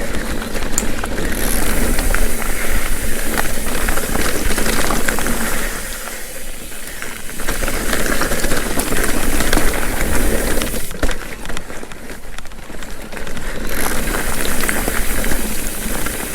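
Mountain bike riding down rocky, loose singletrack: steady tyre and trail noise with many small clicks and rattles from the bike. It eases off briefly twice, about six seconds in and again around eleven seconds.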